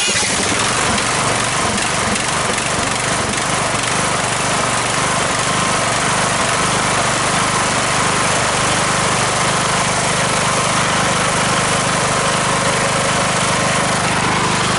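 Lawn tractor's Briggs & Stratton engine running steadily.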